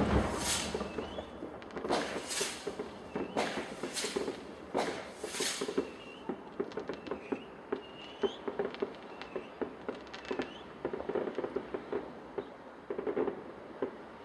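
Fireworks: one sharp bang right at the start, then four or five hissing bursts over the next six seconds, followed by a run of small pops and crackles.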